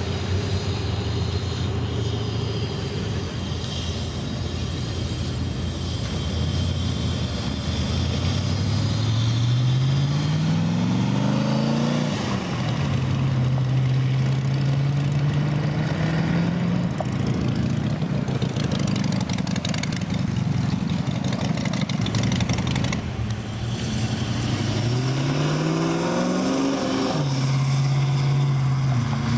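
Cars driving off one after another. An engine climbs in pitch as it accelerates and then drops suddenly at a gear change. This happens twice, over the steady running of other engines.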